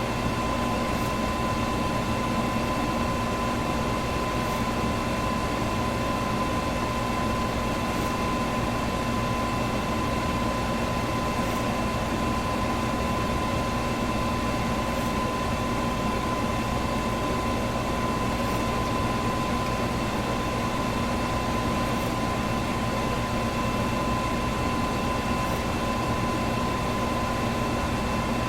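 Electric fan running steadily: an even rush of air with a steady motor hum, and a faint high tick about every three and a half seconds.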